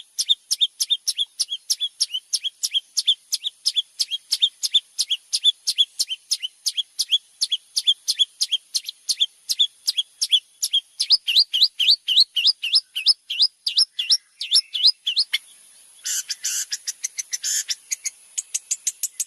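Songbird singing a rapid string of short, sharp chip notes, about four or five a second. About halfway through they change to rising upswept notes. After a brief pause near the end come harsher, scratchier notes. A steady high-pitched hiss runs underneath.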